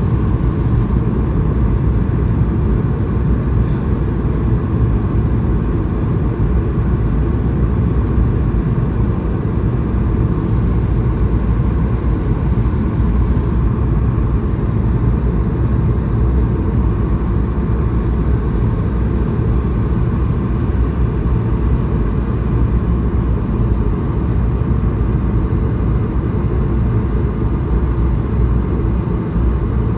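Steady in-flight cabin noise inside an Airbus A220-300: a low, even rush of airflow and engine hum with a faint high steady whine above it.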